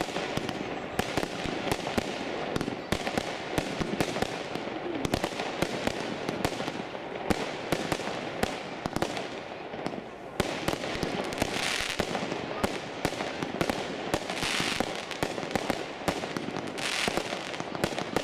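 Night Attack firework battery firing: a continuous rapid crackle of shots and bursting stars, with four louder hissing rushes in the second half.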